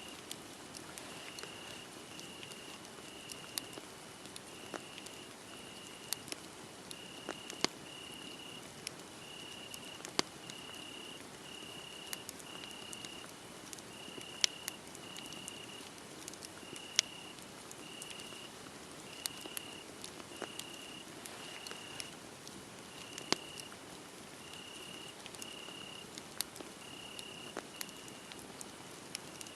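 Wood fire crackling, with irregular sharp pops, a few of them loud. Behind it crickets chirp steadily on one high pitch, about one chirp a second.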